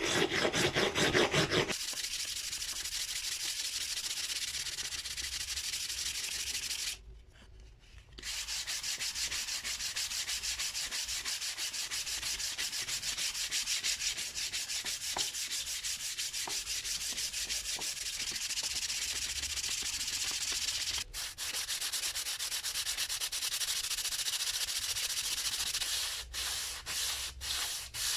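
Rapid back-and-forth hand sanding strokes on the axe, an even scratchy hiss. It stops briefly about a quarter of the way in, and near the end it slows into separate strokes.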